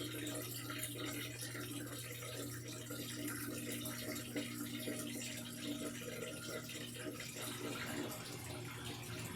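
Washing machine running with water pouring and splashing inside it, over a steady low hum.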